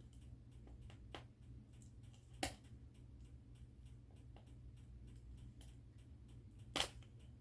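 Plastic packaging being picked and pulled at by hand to get it open: sparse small clicks and crackles, with three sharper clicks about a second in, around two and a half seconds in, and near the end.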